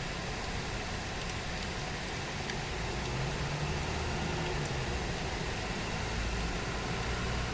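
Steady rain falling, an even hiss with a few faint drop ticks. A low engine hum joins about three seconds in.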